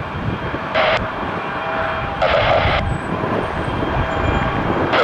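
Jet airliner engines running steady, from a Mitsubishi CRJ-900 arriving, with two short bursts of hiss from an air-traffic radio scanner.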